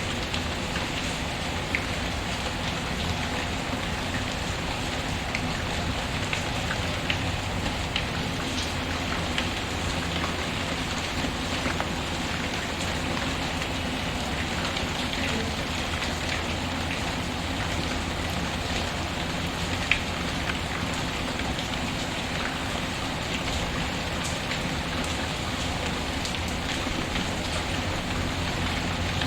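Steady rain patter mixed with a crackling wood fire in a fireplace: scattered small clicks and pops over the rain, with one sharper pop about two-thirds of the way through.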